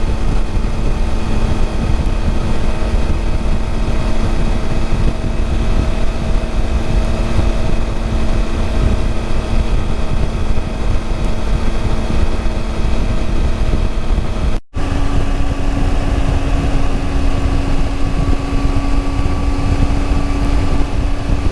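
Triumph Tiger 800 XRx's inline three-cylinder engine running at a steady cruise, with wind noise across the microphone. A split-second gap comes about two-thirds of the way through, after which the engine note is slightly higher.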